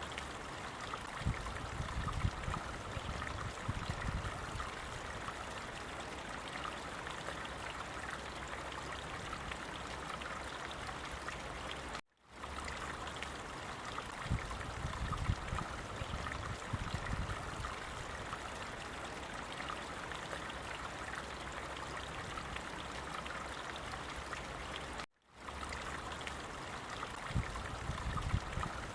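Running stream water, a steady trickling and splashing with a low rumble swelling now and then. It cuts out for a moment about 12 seconds in and again about 25 seconds in, where the looped recording starts over.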